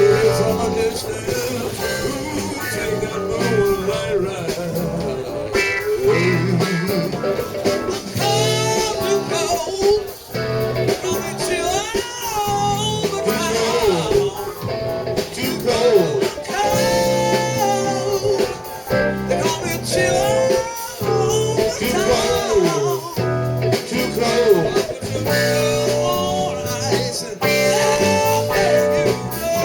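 Live blues-rock band playing, with an electric guitar lead bending notes over the rhythm section.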